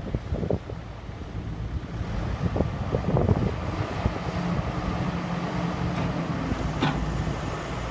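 Ingersoll Rand ZX125's engine running steadily, getting louder about two seconds in, with a few short knocks and squeaks over it, the sharpest near the end.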